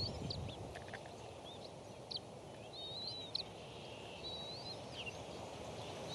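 Wild birds chirping, with several short warbling whistled phrases, over a steady low background rumble.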